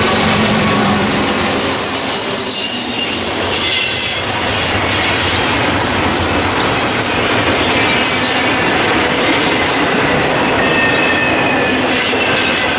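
Double-stack intermodal freight cars rolling past at speed, a loud steady rumble of steel wheels on rail with high-pitched wheel squeal coming and going. A diesel locomotive's engine drone fades out in the first second as the trailing unit passes.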